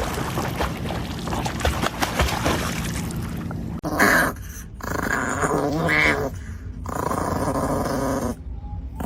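A dog growling and grunting in several short stretches with gaps between them. This follows a stretch of rustling, clicking noise that cuts off abruptly.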